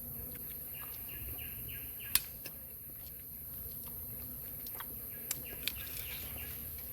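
A bird calling in two runs of short, repeated falling notes over a steady high-pitched insect drone, with a few sharp clicks, the loudest about two seconds in.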